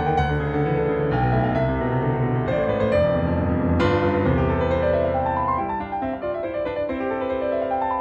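Background piano music, with rolling arpeggios that climb and fall from about five seconds in.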